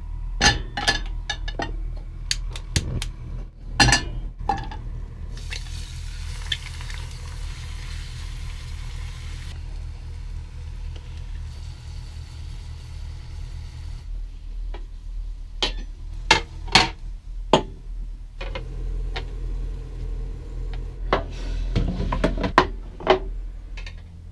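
Pans and kitchen utensils clattering and clinking as breakfast is cooked, with a stretch of steady hissing about five to nine seconds in, over a low steady hum.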